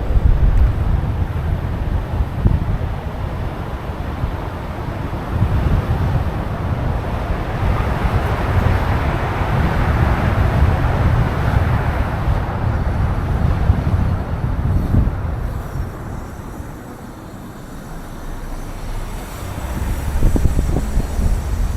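City street traffic with wind buffeting the microphone. A vehicle passes, swelling and fading near the middle, and the noise drops briefly before picking up again near the end.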